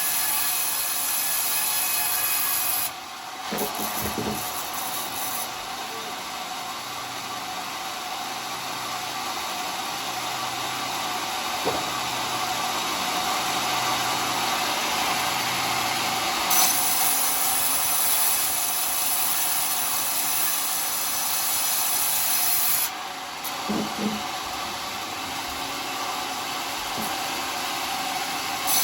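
Circular sawmill blade cutting through a coconut palm log, a steady cutting noise with a bright high hiss. The high hiss drops away about three seconds in, comes back about halfway through, and drops away again near the end, with a few short knocks.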